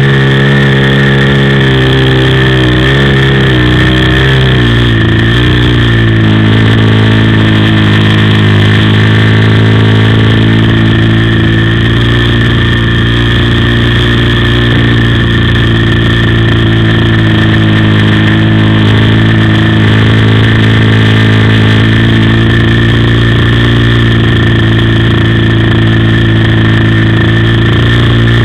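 OS FS-56 four-stroke glow engine of an RC plane running loud and close. Its pitch wavers and drops over the first few seconds as the throttle comes back, then holds steady.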